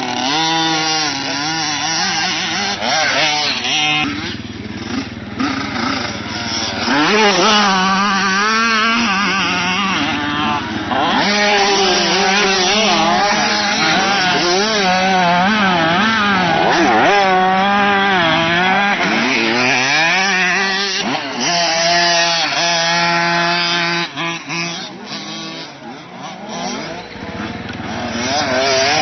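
Motocross bike engines revving on a track, their pitch rising and falling with the throttle, more than one bike heard at once; the sound drops away for a few seconds near the end and then comes back.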